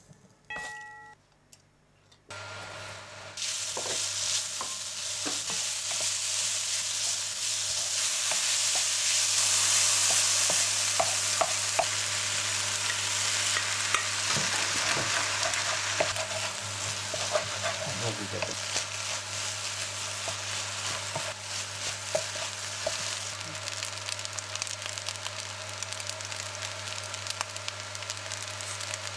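Fried rice (egg-coated rice, diced vegetables and ham) sizzling in a nonstick frying pan while it is stirred with a spatula, with scrapes and taps against the pan. The sizzling starts about two seconds in after a few short beeps, is loudest around ten seconds in, and runs over a steady low hum.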